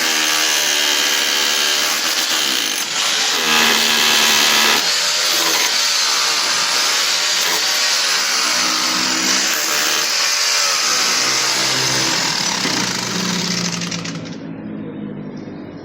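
Handheld electric power tool running continuously under load. Its motor pitch rises and falls as it works, and it winds down and stops about 14 seconds in.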